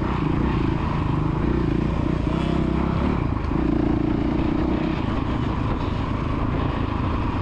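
Motocross dirt bike engine running under throttle, with a steady note that wavers slightly in pitch.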